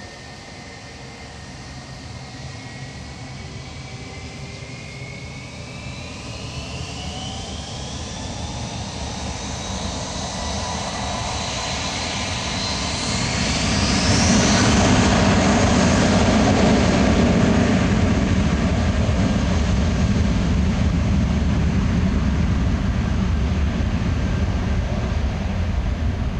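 Jet engines of an Airbus A320-232 (IAE V2527 turbofans) spooling up, their whine rising steadily in pitch. The roar builds to its loudest about halfway through and stays loud.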